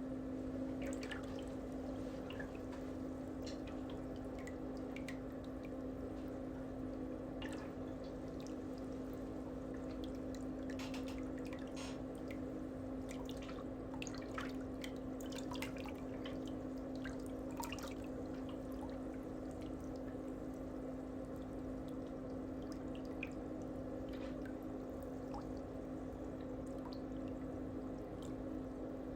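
Water dripping and trickling in small splashes over a steady electric hum.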